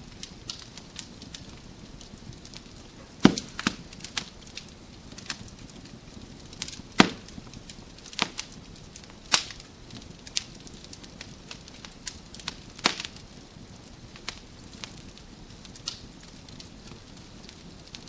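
Wood fire in a fireplace crackling: irregular sharp pops and snaps of burning logs over a soft steady hiss, the loudest pops about three seconds and about seven seconds in.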